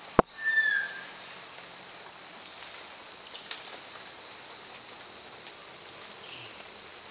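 A sharp click, then one short, loud whistled bird call that falls slightly in pitch, over a steady high drone of insects.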